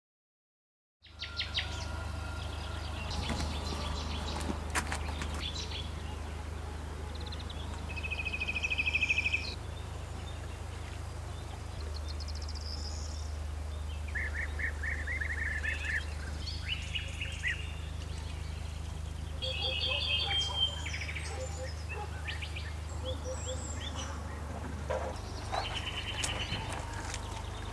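Wild birds chirping and trilling over a steady low rumble. The loudest is a rapid, high trill about eight seconds in, and more short trills and chirps follow.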